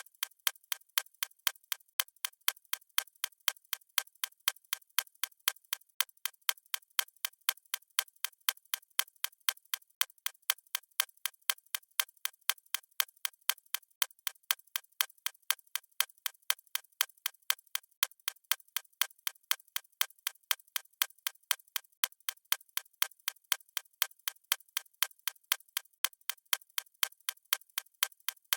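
Clock ticking in a steady, even rhythm of sharp, bright ticks.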